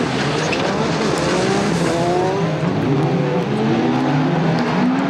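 Several World Rallycross Supercars racing together, their turbocharged four-cylinder engines revving hard, the pitch climbing through each gear and dropping back at every shift.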